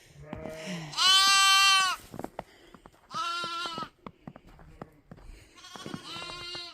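Lambs bleating: three loud, high calls of about a second each, about one, three and six seconds in. A lower, quieter call comes at the very start.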